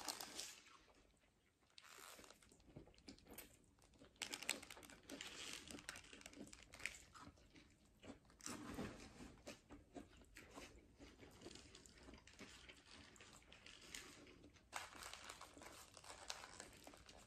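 Soft, close-miked chewing of a burger, with scattered small clicks and the crinkle of its paper wrapper as it is handled and bitten into again near the end.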